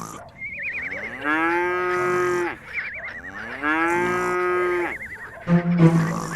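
Cow mooing twice, two long moos, with a warbling high tone before and between them. Music begins near the end.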